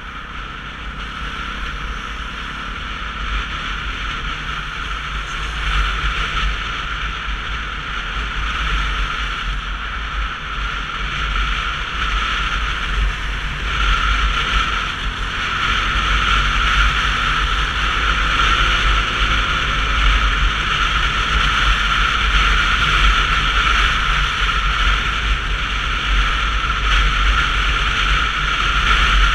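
Wind buffeting and road noise on a helmet or bike-mounted action camera while riding a Sinnis Terrain 125cc motorcycle: a heavy steady rumble that grows louder as speed builds. The engine is only faint beneath it, its note rising and falling.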